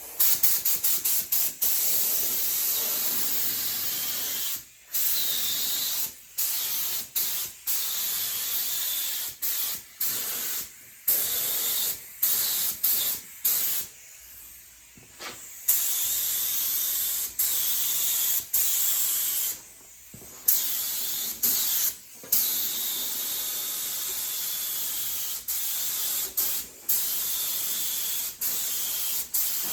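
3M AccuSpray spray gun with a 1.8 tip spraying primer. Its air hiss starts and stops again and again, in short spurts and a few longer passes, with sudden breaks between.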